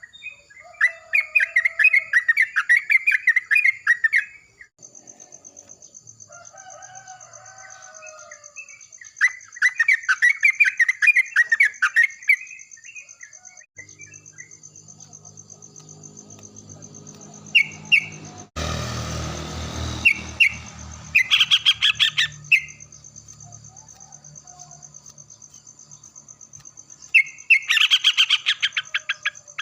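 Yellow-vented bulbuls singing loud bubbly chattering phrases in bursts of a few seconds, one answering another, four bursts in all. A steady high thin tone runs underneath, and a short rush of noise comes about two-thirds of the way through.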